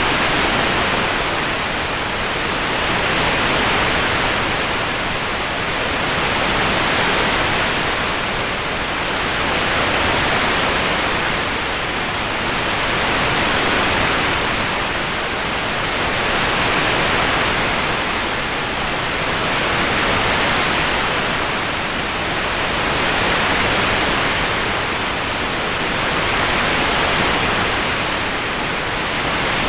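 Rain-sound ambience: a steady, even hiss that swells and eases about every three to four seconds, with no separate drops or thunder.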